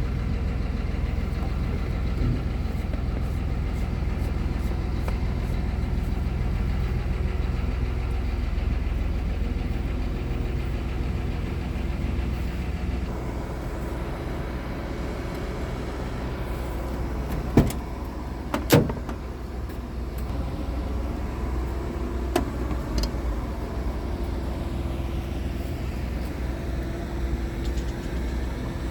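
Scania R tractor unit's diesel engine idling steadily. Two sharp clicks about a second apart a little past halfway, and a fainter one a few seconds later.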